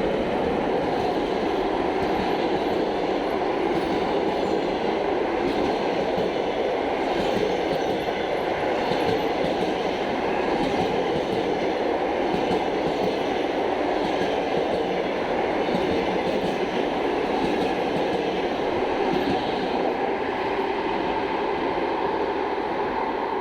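Express passenger train running through a station at speed without stopping: a steady, loud rush of passing carriages with the clatter of wheels on the rails.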